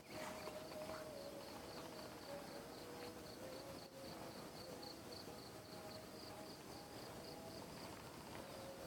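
An insect calling from within a tree: a high, even chirp pulsing about four times a second, over a lower steady hum that breaks off and resumes.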